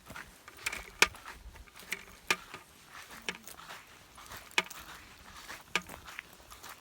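Footsteps while walking: sharp clicks, evenly spaced about every second and a quarter.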